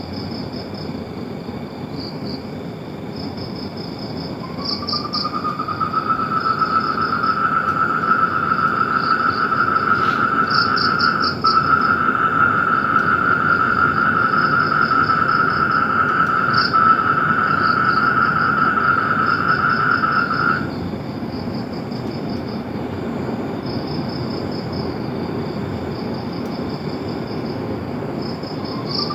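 Chorus of calling animals: rapid chirps in short pulsed trains throughout, and a steady high trill that starts about four seconds in and stops suddenly about twenty seconds in, over a low, even rushing background.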